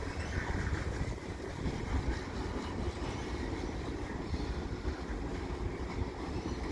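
Mixed freight train of tank cars, a covered hopper and boxcars rolling past: a steady rumble of steel wheels on the rails.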